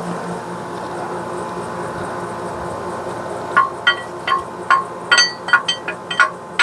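Repeated hammer taps on a steel part being driven into a Corvair rear-end housing, each strike a sharp metallic clink that rings. The tapping starts about halfway through, two to three taps a second, over a steady low shop hum.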